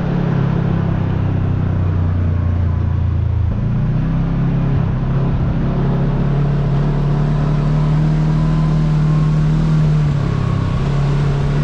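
Side-by-side UTV engine running steadily under way, with road and wind noise. The engine note shifts about three and a half seconds in and again near the end.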